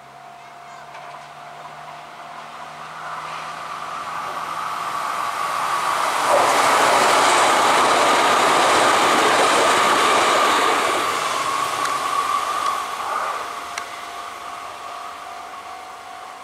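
Kintetsu limited express electric train passing close: it builds from about three seconds in, is loudest for several seconds as the cars go by with a rush of wheel and track noise and a steady whine, then fades away.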